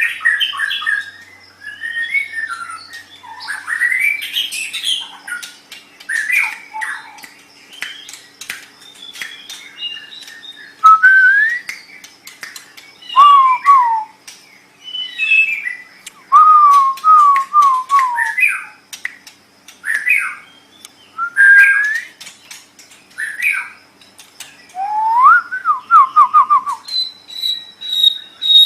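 White-rumped shama (murai batu) singing a varied run of loud whistled phrases, broken by quick trills of falling notes and short clicks. Near the end a thin, steady high note begins.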